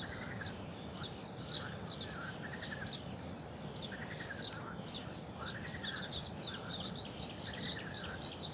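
Several songbirds singing together: a dense run of quick high chirps, with a lower arched warbling phrase repeated every second or two, over a steady low background hiss.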